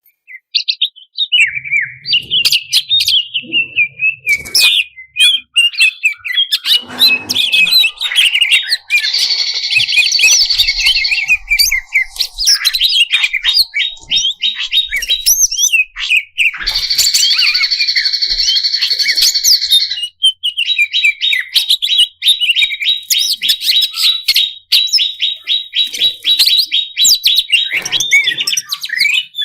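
A cucak cungkok leafbird singing a fast, varied song of chirps and trills full of mixed phrases. It has two stretches of harsh, buzzy notes and, in the second half, a long run of rapid repeated notes.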